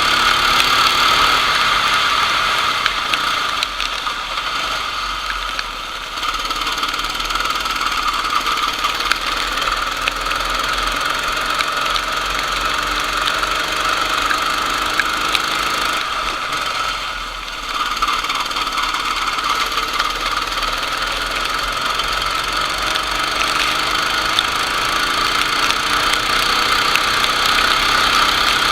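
Racing kart engine running at speed, its pitch rising and falling as it is throttled on and off, with a brief drop in level about seventeen seconds in.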